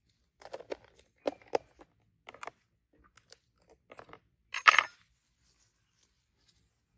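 Butter knife scraping margarine across slices of bread in short, irregular strokes, with one louder, longer scrape a little past halfway.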